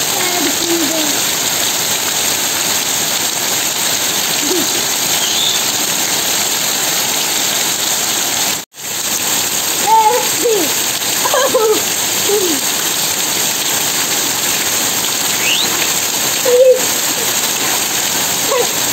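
Heavy rain pouring steadily, with a few short voice sounds over it around the middle and near the end. The sound cuts out for an instant about halfway.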